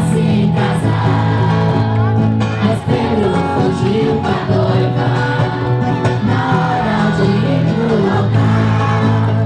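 Group of voices singing a festa junina song together, with guitar accompaniment.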